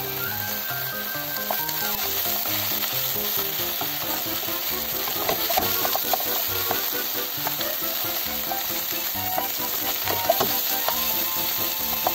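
Pork, shimeji mushrooms and komatsuna sizzling in a frying pan as they are stir-fried with a wooden spatula, with a few sharper clicks of the spatula against the pan about halfway through and near the end.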